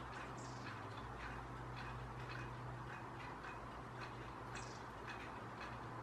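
Long-tailed tits calling at a feeder: a scatter of short clicking notes with a few high, thin calls, over a low steady hum.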